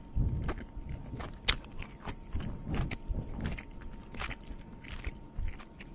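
A person chewing and biting food close to the microphone, heard as a string of short, irregular mouth clicks and crunches.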